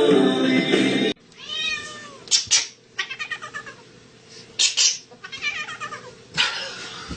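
A domestic cat meowing and chirping several times in short calls, with a few sharp clicks among them. Music stops abruptly about a second in, just before the cat is heard.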